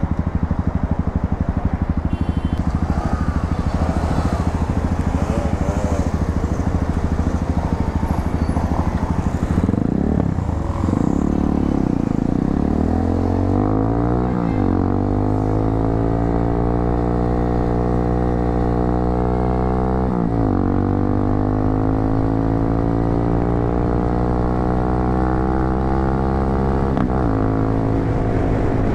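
250cc motorcycle engine through an aftermarket muffler, running steadily for about ten seconds, then accelerating. Its pitch climbs in each gear and drops briefly at three upshifts.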